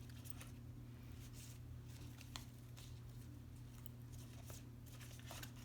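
Faint rustling and light clicks of small twig pieces being handled and set into a diorama box, over a steady low hum.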